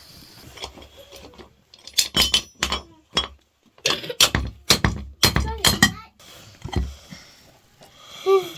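Kitchenware clinking and knocking: a quick run of sharp, ringing clinks, densest in the middle, as dishes and utensils are handled.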